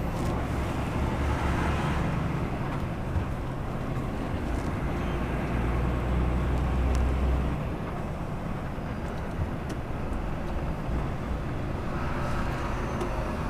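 Inside the cab of a DAF XF106 510 lorry on the move: the PACCAR MX-13 straight-six diesel running with steady road noise. The low engine note swells about five seconds in and eases off about three seconds later.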